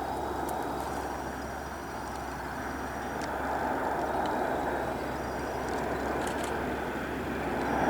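Jet engine noise from a Boeing KC-135R Stratotanker's four CFM F108 turbofans on approach to land, steady and growing slowly louder as it nears. A few faint high chirps sound above it.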